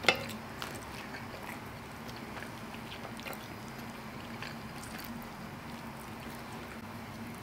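Close-miked chewing of a mouthful of mac and cheese, with small wet mouth clicks. A metal spoon clinks sharply against a cast-iron skillet right at the start and scrapes through the pasta. A faint steady hum runs underneath.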